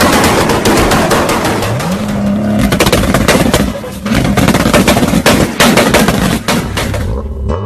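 Tuned car engine revving up and down, with rapid crackling pops from the exhaust.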